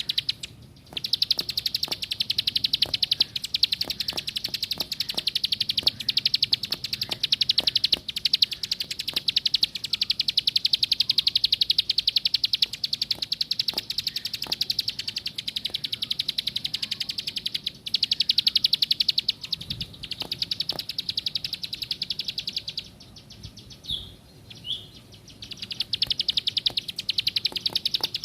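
Plain prinia (ciblek sawah) singing a fast, unbroken trill of rapidly repeated high notes. It breaks off briefly just after the start, and again for about two seconds near the end, where only two short chirps sound before the trill resumes.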